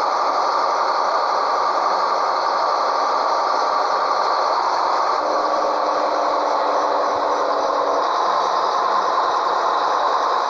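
Scania 113H truck running under way with a bitrem trailer: a steady blend of engine and road noise with no change in speed or load.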